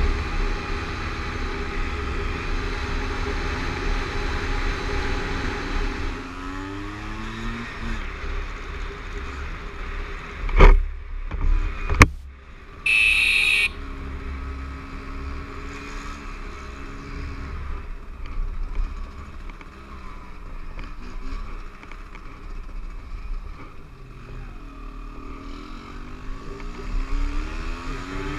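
Motorcycle engine running on the road with wind rumble, its pitch rising and falling with the throttle and gear changes. Two sharp knocks come a little over a third of the way in, followed by a brief high-pitched tone.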